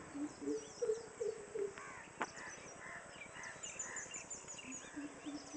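Birds calling: a low note repeated in quick series, several times a second, that stops partway through and starts again near the end, over many short high chirps from small birds. A single sharp click about two seconds in.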